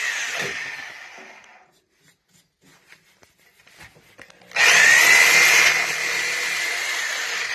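Power tool cutting out a section of heating pipe. A short run winds down over the first two seconds; then, after a pause, a longer steady cut with a high whine starts about four and a half seconds in.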